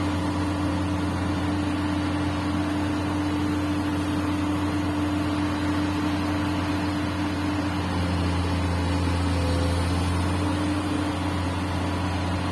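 Komatsu PC200 excavator's diesel engine running with a steady low drone, getting a little louder for a few seconds past the middle.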